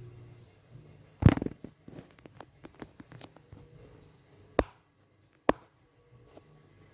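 A loud knock about a second in, followed by a run of lighter clicks and two sharper clicks, over a faint low hum.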